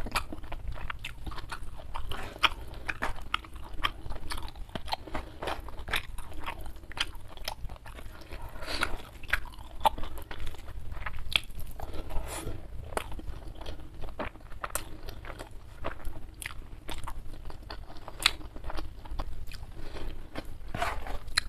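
Close-miked chewing of a mouthful of rice and side dishes, with many quick wet clicks and smacks. A few times comes a longer soft rustle as fingers gather rice on the wooden board.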